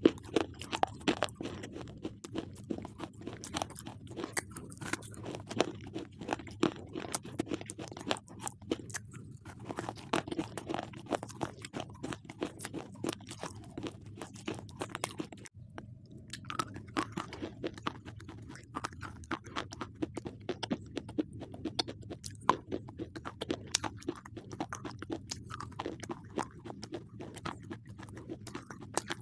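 Close-up chewing of slate pencils: many sharp, irregular crunches as the brittle slate is bitten and ground between the teeth, with a short pause about halfway through.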